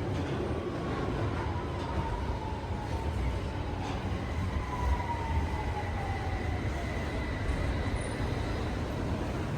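London Underground 1992 Tube Stock train running, heard from inside the carriage: a steady rumble of wheels on rail, with a thin whine that falls slowly in pitch over several seconds.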